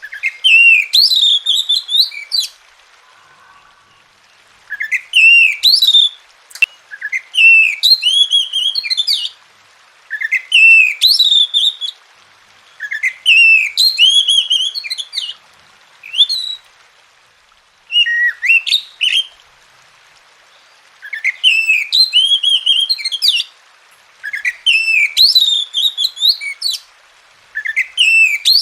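Oriental magpie-robin (kacer) singing: a run of short song phrases made of clear, quickly rising and falling whistled notes. Each phrase lasts a second or two, with brief pauses between them.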